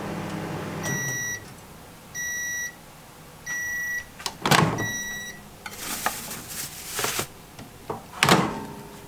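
Microwave oven finishing: its running hum stops about a second in and it gives four high beeps about a second apart. Then two sharp clunks about four seconds apart, with rustling handling noise between them.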